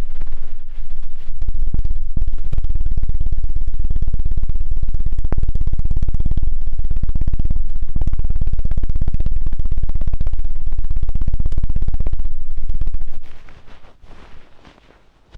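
ASMR 'helicopter' ear-cleaning trigger: a loud, dense run of very rapid thumps on the microphone, heavy in the bass, imitating helicopter rotor chop. It stops about 13 seconds in, leaving a few soft rustles.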